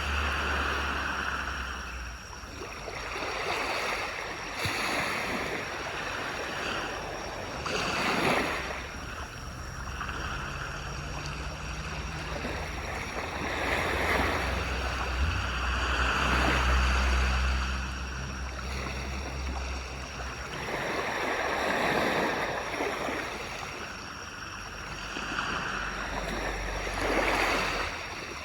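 Waves breaking and washing up on a beach, swelling and fading every few seconds, over a steady low rumble.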